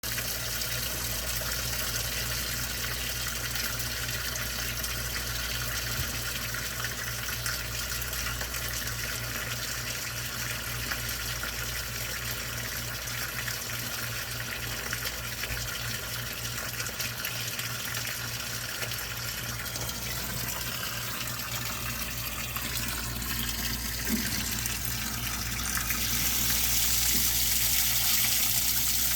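Water running steadily, with a low hum underneath; the flow grows louder about 26 seconds in.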